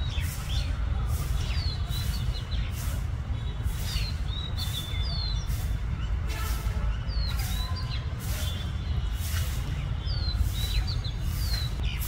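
Birds calling repeatedly: short falling chirps and sharp, shrill notes every second or so, over a steady low rumble.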